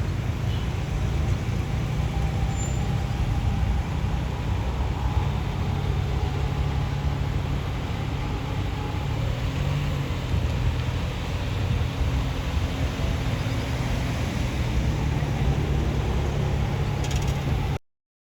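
Boeing 757-200 in flight, heard inside the cabin: a steady low rumble of engines and airflow. It cuts off suddenly near the end.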